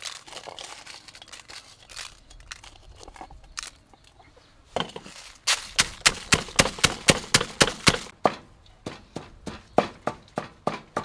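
Pestle pounding lemongrass and dried chillies in a mortar for a spice paste. It begins with rustling and a few light knocks, then from about five seconds in a run of sharp, even strikes at about four a second, slowing slightly near the end.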